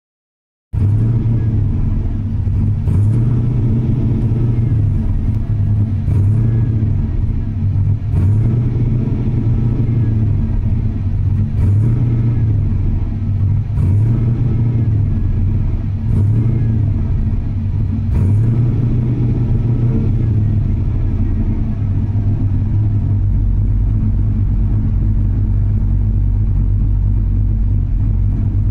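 Vehicle engine running, heard from inside the cab, its low rumble rising and falling about every two seconds with a faint click at each swell, then settling into a steadier, deeper drone after about twenty seconds.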